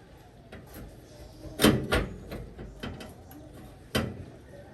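A handful of sharp knocks and clanks from tools and parts being handled during a vehicle repair, the loudest two about a second and a half in, another near the end.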